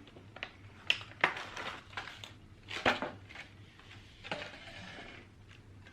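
A few sharp clinks and taps of tableware, three of them standing out in the first three seconds, followed by a soft rustle near the end as the lunch is handled.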